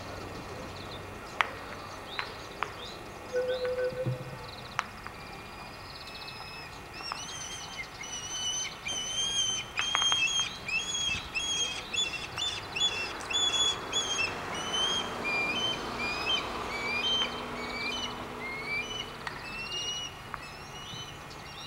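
Small songbirds chirping and singing in quick runs of short, repeated high notes, busiest in the second half, over a steady outdoor hiss. A few sharp clicks sound in the first few seconds.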